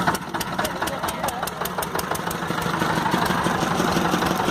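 Small fishing boat's engine idling steadily, with a quick run of sharp clicks, about six or seven a second, through the first two seconds.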